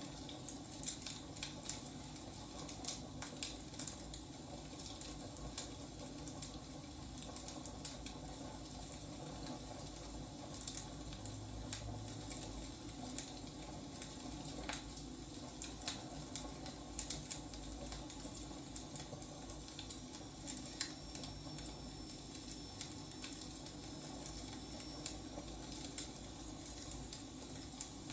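Wood fire burning: logs crackling and popping in irregular sharp snaps over a steady low rush of the flames.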